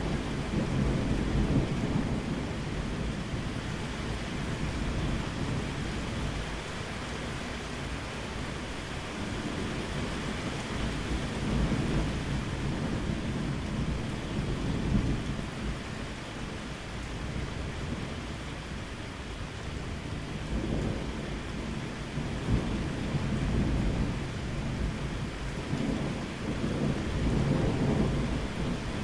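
Steady rain with low, rolling thunder that swells and fades several times.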